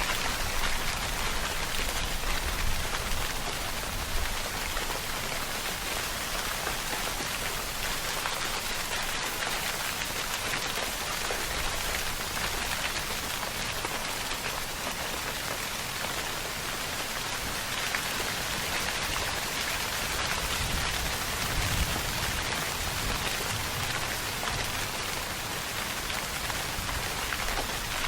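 Steady rainfall, a dense even hiss of raindrops on surfaces with a soft low rumble underneath.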